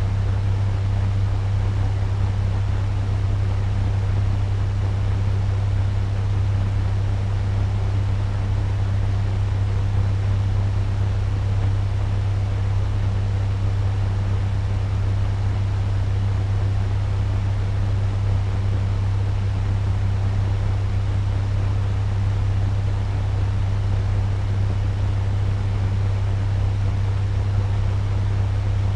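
Turbo fan running steadily at medium speed: an even rush of air over a strong, constant low hum.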